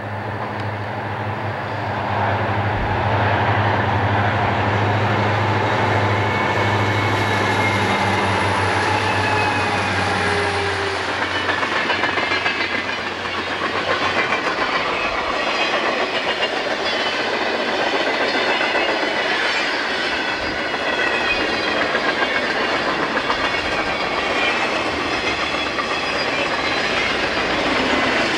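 CN diesel freight locomotives passing close by, their engines a steady low drone, then, about halfway through, the freight cars rolling past with wheels clicking rhythmically over the rail joints.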